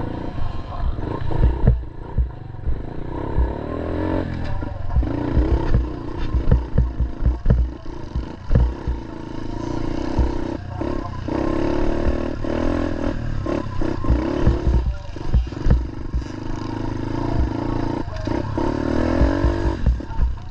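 Small pit-bike engine running and revving up and down under load on a dirt hill climb, its pitch rising and falling, with repeated wind buffeting and bumps on the GoPro microphone.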